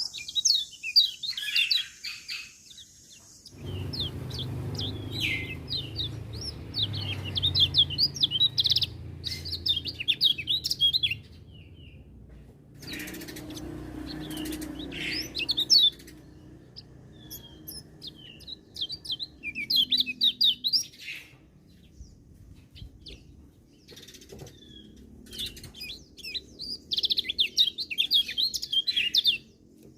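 Kecial kuning white-eye singing: fast, high twittering phrases of many quick chirps, repeated in bursts with short pauses between them.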